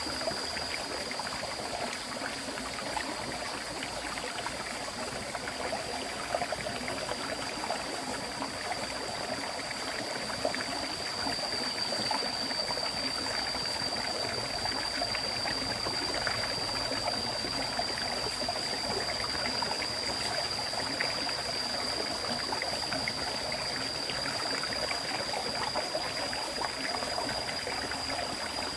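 River water flowing steadily over stones, a continuous rushing and trickling. A thin, steady high-pitched whine sits above the water the whole time.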